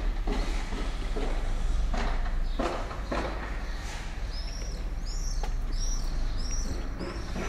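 Street ambience with a steady low city hum and a few footsteps on the pavement in the first half, then a small bird chirping about six times in a row, each a short high falling note, over the second half.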